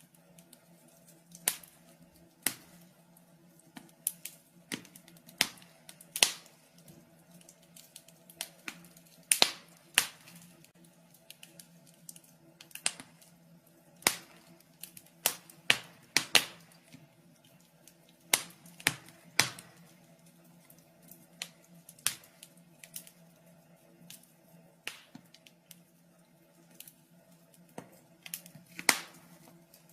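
Wood fire in a fireplace crackling, with sharp, irregular pops and snaps over a quiet background.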